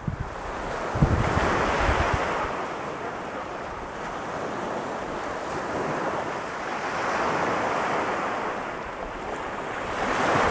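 Ocean surf breaking and washing up a sandy beach, the roar swelling and ebbing with each wave, loudest near the end. Wind buffets the microphone about a second in.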